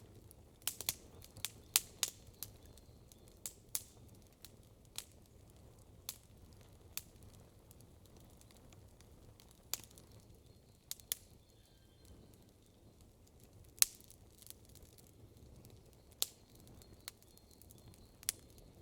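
Wood campfire crackling: irregular sharp pops and snaps over a low steady hiss of flame, a quick cluster of pops in the first couple of seconds and a few louder single snaps later on.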